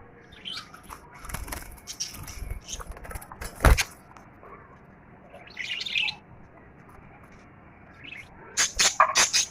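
Small birds in a budgerigar cage, a frightened young house sparrow among them, fluttering and chirping. There is a sharp knock about three and a half seconds in, and a busy run of high chirps near the end.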